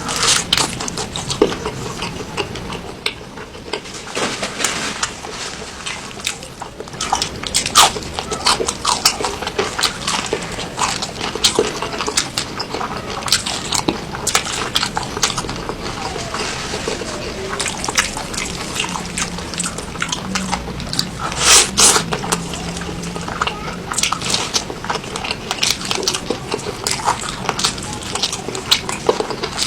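Close-miked eating of noodles and chicken, a steady run of wet chewing, lip smacks and bites. About twenty-one seconds in comes one longer, louder slurp.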